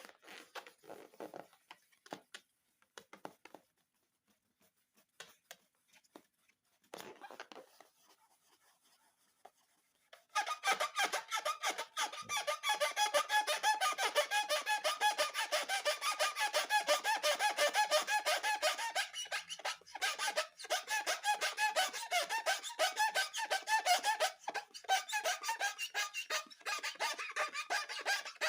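Quiet scattered handling sounds, then from about ten seconds in a fast, continuous run of squeaky rubbing strokes, several a second.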